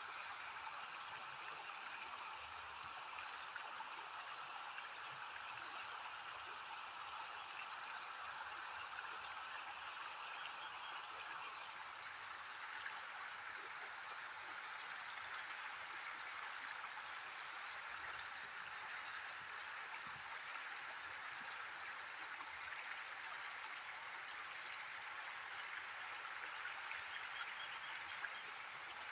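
Steady hiss of water, even and unbroken throughout, the kind made by heavy rain or a running stream.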